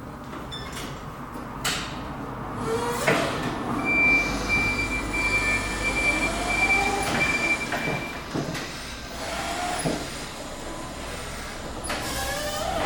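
Heavy hydraulic machinery at work: metal knocks and clunks, squealing tones that slide up and down, and a steady high whine held for about four seconds in the middle.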